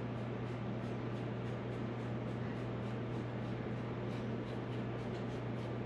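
Steady low hum over a constant hiss, with faint light ticks repeating at the top.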